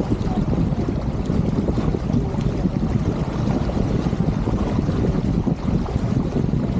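Steady wind noise rumbling on the microphone aboard a sailing yacht under way, with water washing along the hull.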